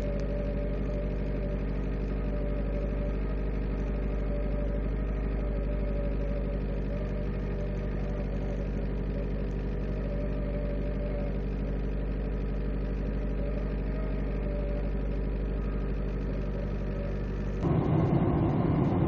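Mitsubishi Colt engine running at a cold-start fast idle of nearly 2,000 rpm in −28 °C frost, heard from inside the cabin: a steady running note that sounds very bad, like a tractor. Near the end a louder, rougher noise comes in.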